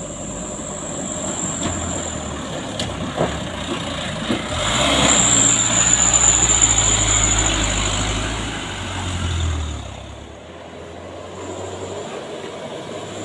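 Heavy diesel truck engine labouring up a steep climb, its low rumble swelling with a rush of noise about five seconds in and falling away sharply about ten seconds in.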